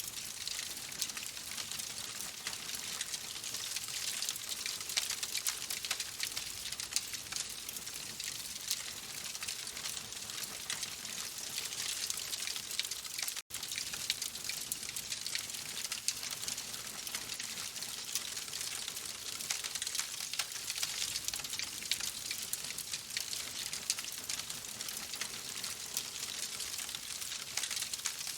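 Wood fire in a fireplace crackling: a steady hiss dense with small, quick pops and snaps. The sound drops out for an instant about halfway through.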